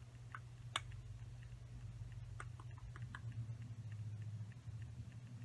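Scattered small clicks and taps from handling a battery-powered plastic toy parrot, with one sharp click under a second in and a quick run of clicks near the middle, over a steady low hum.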